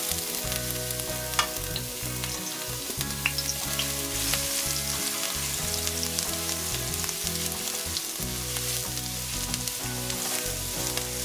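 Minced garlic and ginger sizzling in hot coconut oil in a wok, stirred with a silicone spatula. A steady hiss runs throughout, with scattered small pops and ticks.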